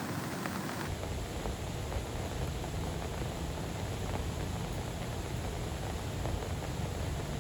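Heavy rain falling as a steady hiss. About a second in the sound shifts abruptly and a low, steady rumble comes in under the rain.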